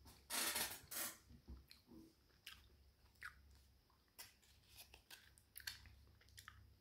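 A person biting into a hard pellet of natural peppermint chewing gum and chewing it. It gives one loud crunch in the first second, then scattered small clicks as the chewing goes on.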